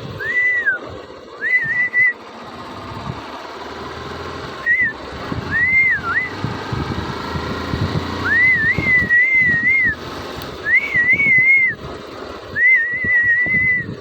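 A person whistling a tune in about seven short high phrases, some rising into a wavering trill, with brief gaps between them.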